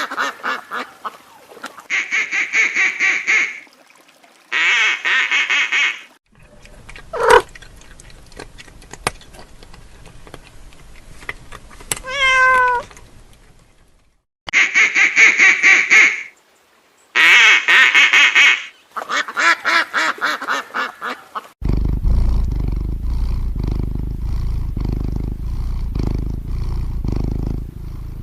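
A run of short animal calls one after another: several bursts of fast, rapidly repeated calls, a single call gliding in pitch about halfway through, and a long low rumbling stretch near the end.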